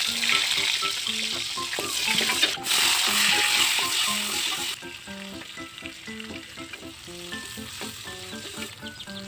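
Chopped chili mixture for balado hitting hot oil in a wok, sizzling loudly as it is stirred with a ladle. The sizzle settles to a quieter frying about five seconds in.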